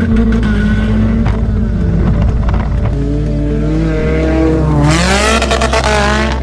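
A car engine revving, its pitch climbing and wavering from about three seconds in and loudest near the end, over background music with a steady bass.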